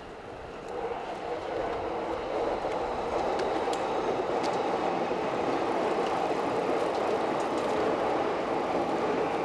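A JR electric commuter train running past on the tracks. Its rumble swells about a second in and then holds steady.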